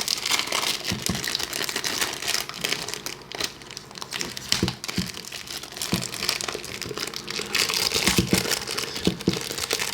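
Plastic wrapping crinkling and rustling continuously as a new Moyu speedcube is unwrapped, with a few dull knocks of handling mixed in.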